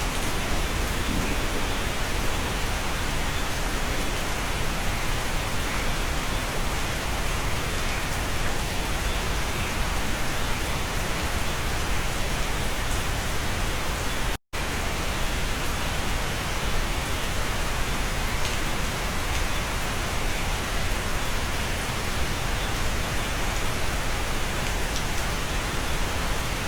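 Steady rain heard from inside a cabin, an even hiss with no distinct drops standing out. The sound cuts out completely for an instant about halfway through.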